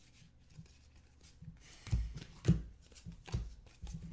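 Trading cards being handled and laid down on a table: light rustling, then a few soft taps, the loudest about two and two and a half seconds in.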